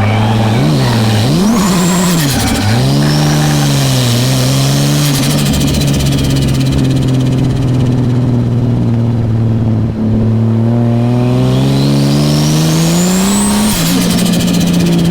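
Toyota Aristo (JZS161) 2JZ straight-six engine driven hard: quick revs rising and falling in the first few seconds, then held at steady revs, a brief dip about ten seconds in, then climbing revs that fall sharply near the end.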